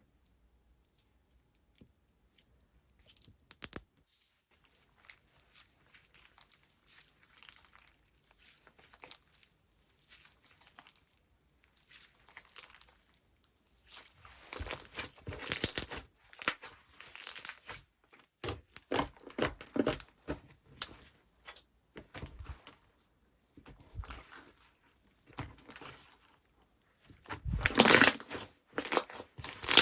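Slime being squeezed, stretched and pulled apart by hand, making bursts of small sticky clicks and crackles. The bursts are loudest about halfway through and near the end.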